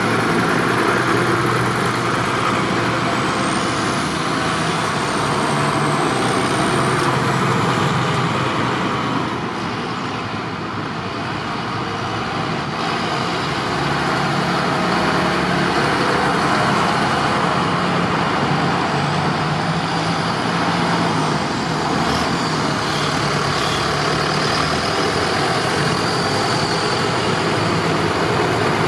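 Tractor engines running steadily, dipping slightly in loudness about ten seconds in.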